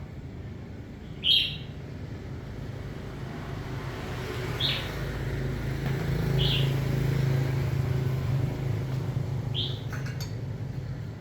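A bird gives single short chirps, four of them spread over about ten seconds, the first the loudest. Underneath, a low hum like a passing engine swells up in the middle and fades away.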